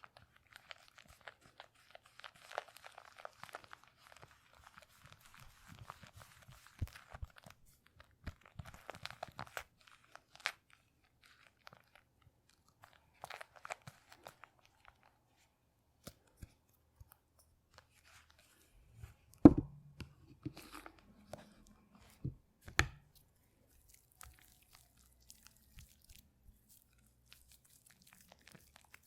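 Close-miked crisp crackling and crunching from something being handled, with a few sharp knocks about two-thirds of the way through.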